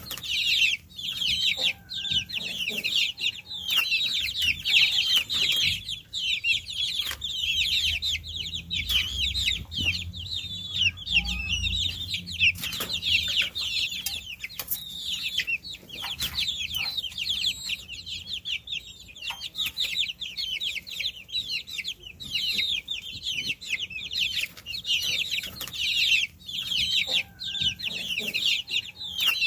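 A brood of baby chicks peeping continuously: many short, high chirps overlapping, most of them sliding down in pitch.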